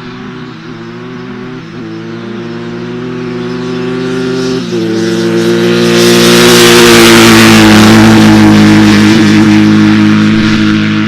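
Dirt bike engines running hard at high revs, growing steadily louder for about six seconds, then holding at full volume.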